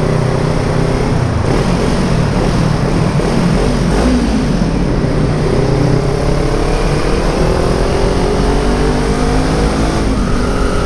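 Kawasaki Ninja 400 parallel-twin engine under way, its "ronquinho" (little growl) over a steady rush of wind; about halfway through the engine note begins rising steadily as the bike accelerates.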